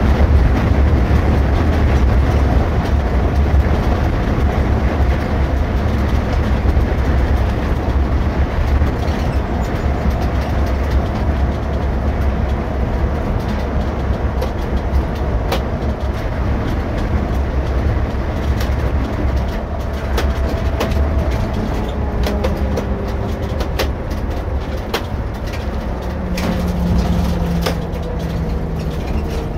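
Irisbus Récréo II coach driving, heard from the driver's seat: a steady low rumble of engine and road with scattered clicks and rattles. Near the end a few engine tones come through and slowly fall in pitch.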